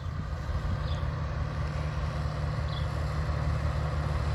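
Tractor engine running with a steady low rumble, growing gradually louder as it approaches.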